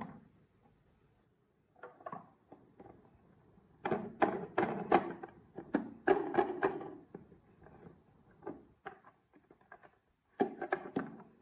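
Marbles running down a wooden marble run, clattering and clacking against the wooden track pieces in quick bursts, with single ticks and short lulls between the busiest runs.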